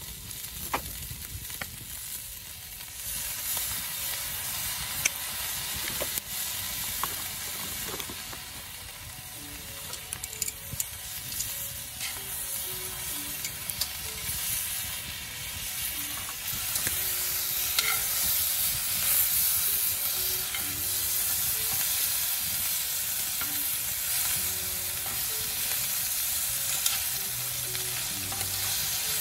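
Edamame sizzling in a steel skillet over a wood fire while being stirred with tongs. A steady hiss grows louder a few seconds in, with sharp clicks now and then.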